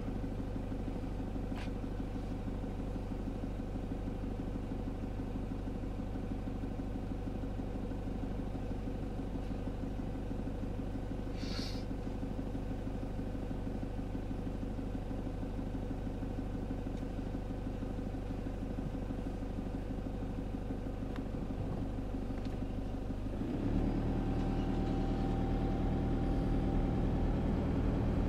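Vehicle engine idling steadily; about 23 seconds in it gets louder and changes note as the vehicle pulls away and drives on. A brief high squeak about 12 seconds in.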